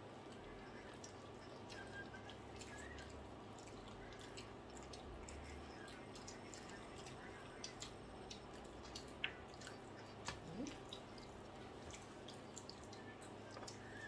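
Faint eating sounds: people chewing meat and potatoes with small wet mouth clicks and smacks, a few sharper ticks about nine and ten seconds in.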